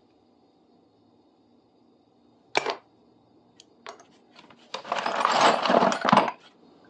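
Metal hand tools clinking and rattling as they are sorted out of a bucket: one sharp clink about two and a half seconds in, a couple of light clicks, then a longer rattle of tools being shifted near the end.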